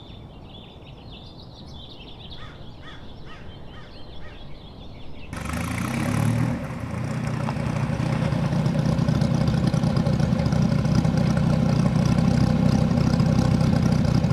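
Birds chirping faintly for the first few seconds, then from about five seconds in the Dodge Viper SRT10's 8.3-litre V10 engine running loud and steady with a deep rumble.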